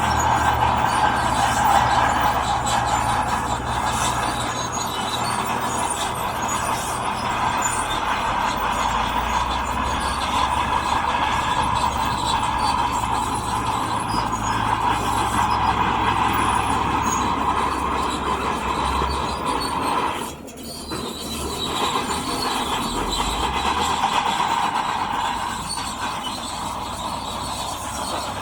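Diesel earthmoving machine running steadily under load, with a continuous metallic squeal and clatter over the low engine hum, typical of crawler tracks or steel parts grinding as rock is pushed. The sound drops briefly about two-thirds of the way through.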